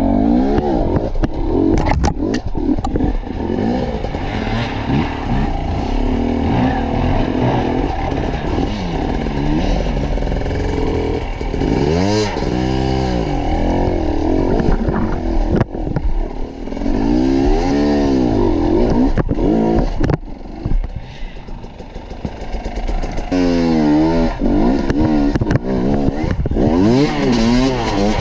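Enduro motorcycle engine revving up and down again and again, the pitch swinging up and falling back every second or two, with scattered knocks and clatter. The engine eases off briefly about two-thirds of the way through, then picks up again.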